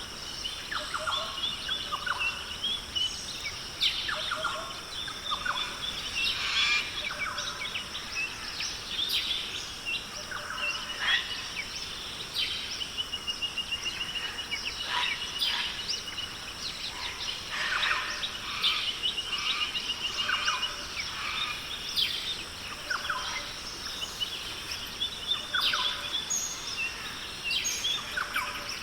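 Rainforest ambience: many birds calling at once with short whistles, chirps and a fast trill about halfway through, over a steady high-pitched hum.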